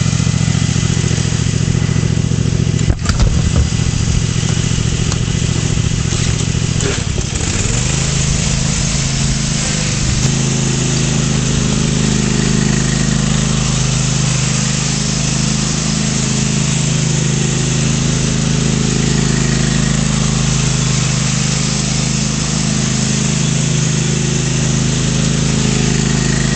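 Lawn tractor's engine running steadily. There is a knock about three seconds in, and about seven seconds in the engine speeds up a little and holds at the higher pitch.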